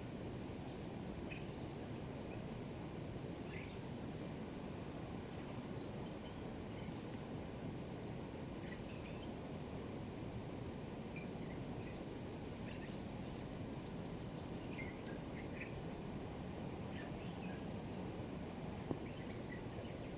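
Dusky thrush singing very faintly: short, scattered high notes, some in quick clusters, over a steady low background rumble.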